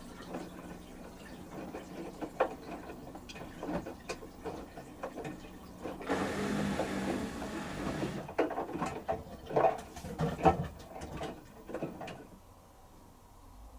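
LG TurboWash 360 direct-drive washing machine in its wash stage: the drum tumbles the wet load over a steady motor hum, with water sloshing and irregular clicks and knocks. A louder, noisier stretch comes in the middle, and the drum goes quiet near the end as it pauses between turns.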